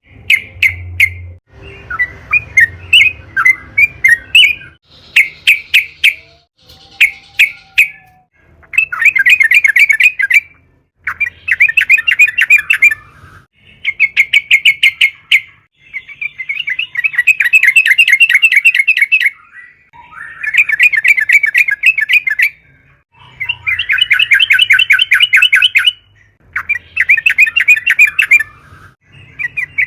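Yellow-vented bulbul singing in repeated bouts of rapid, bubbly chattering notes, each bout one to three seconds long, with short pauses between.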